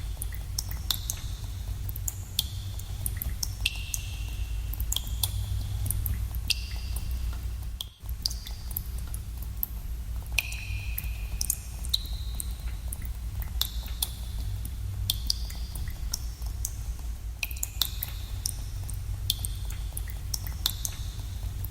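Water dripping into pools in a cave: many irregular drops, several of them giving short ringing plinks that echo, over a steady low rumble. The whole ambience dips for an instant about eight seconds in.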